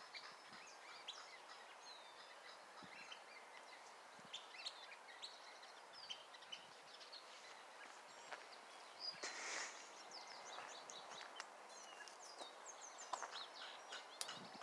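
Several small birds chirping and calling faintly, in many short high notes scattered throughout. About nine seconds in a brief rushing noise rises over them for about a second.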